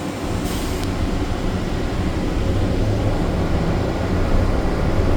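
SFO AirTrain people mover running: a steady low rumble that slowly grows a little louder, with a short hiss about half a second in.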